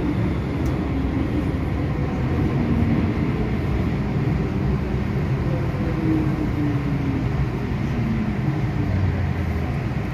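MTR M-Train metro car running at speed between stations: a steady rumble of wheels on rail and running gear, heard from inside the car, with faint tones slowly sliding up and down in pitch.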